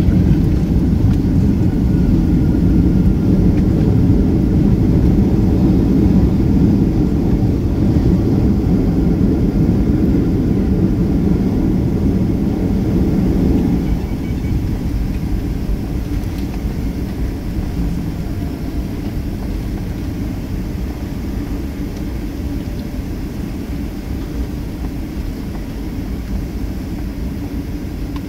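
Cabin noise inside a Boeing 757-300 on the ground after landing: a loud, steady low rumble that drops off abruptly about halfway through, leaving a quieter steady hum.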